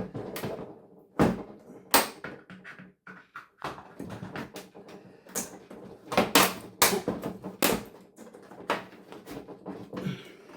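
Plastic casing of a broken television being pried and pulled apart by hand: an irregular run of sharp clicks, knocks and cracks as parts come free and are knocked against each other, with the loudest knocks in a cluster past the middle.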